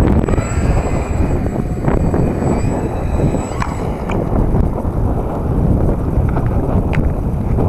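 Strong wind buffeting the microphone with a heavy low rumble, and a faint high whine that stops about halfway through.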